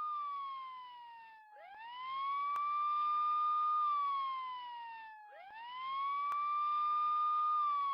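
Police car siren on a slow wail: the tone rises, holds and then glides down, twice over, each cycle about four seconds long.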